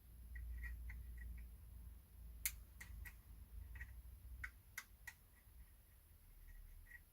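Light, irregular clicks and taps of small metal hand tools picking at a part inside a Roberts 94i radio, the sharpest click about two and a half seconds in, over a faint low hum.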